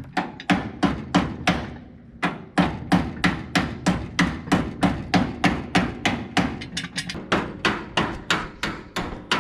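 A hammer striking in quick, even blows, about three or four a second, with a short pause about two seconds in.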